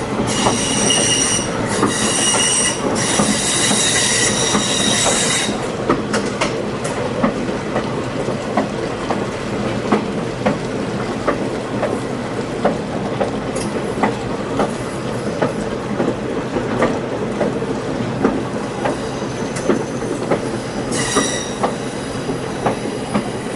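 Passenger train rolling on the rails with a steady rumble and scattered wheel clicks. A high, several-toned squeal of steel wheels sounds for the first five seconds or so and comes back briefly near the end.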